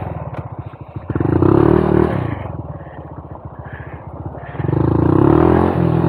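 Honda Monkey 125's single-cylinder four-stroke engine pulling away under throttle. It opens up about a second in, eases back for a couple of seconds, then opens up again near the end.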